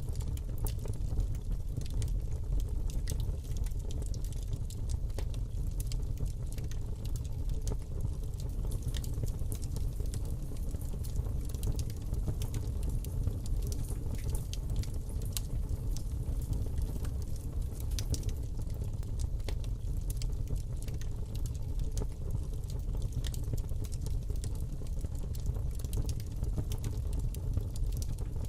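Fire burning in a fireplace: a steady low rumble of flames with irregular crackles and small pops throughout.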